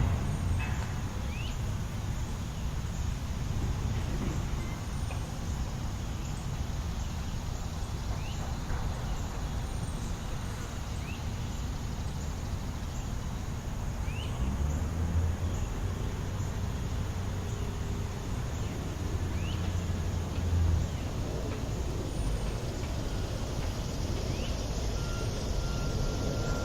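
City park ambience dominated by a steady rumble of road traffic, with a heavier vehicle passing between about 14 and 21 seconds in. Short rising chirps sound every few seconds, and a thin steady high tone comes in near the end.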